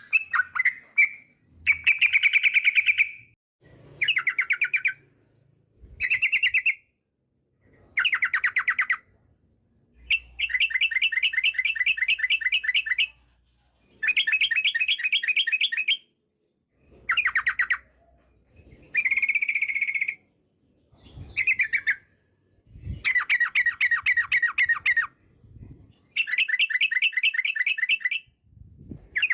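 Yellow-vented bulbul (trucukan) singing: phrase after phrase of rapid, bubbling chattering notes, each phrase a second or two long, with short pauses between.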